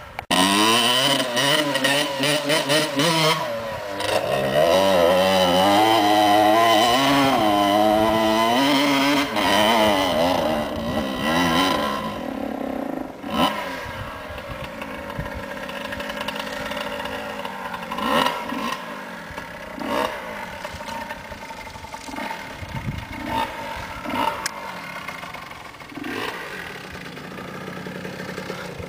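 Dirt bike engine revving hard, its pitch swinging up and down under throttle on a hill climb for about the first twelve seconds. It then settles to a lower, quieter running, with scattered knocks and clatter.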